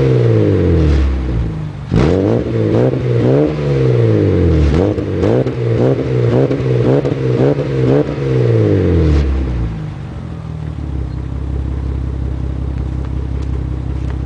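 1994 Ford Probe GT's 2.5 L DOHC V6 free-revving through a catless test pipe, resonator and straight-through muffler: a string of quick throttle blips, the pitch rising and falling with each, then dropping back to a steady idle about ten seconds in.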